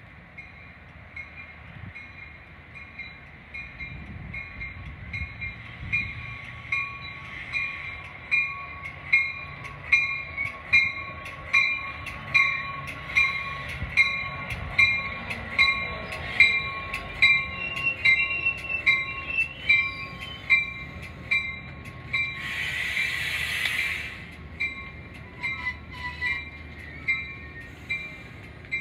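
A commuter train's warning bell ringing steadily, a little over one strike a second, getting much louder as the push-pull train arrives and rolls past over a low rumble of its wheels. A loud rushing burst lasts about two seconds near the end.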